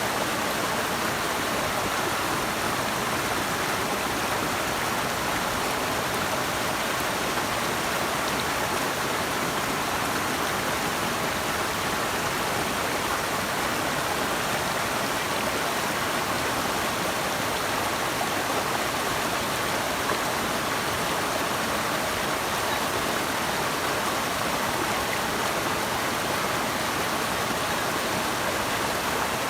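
Steady rushing of flowing water from a stream or waterfall, an even continuous wash with no breaks.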